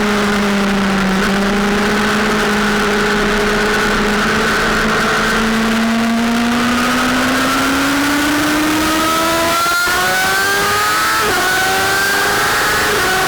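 Sportbike engine holding a steady note, then revving up under acceleration, with two quick gear changes about ten and eleven seconds in and the note climbing again after each.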